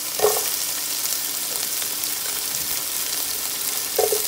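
Chopped red onion sizzling in a hot pan of steak fat and juices, a steady frying hiss, with two short louder sounds, one just after the start and one near the end.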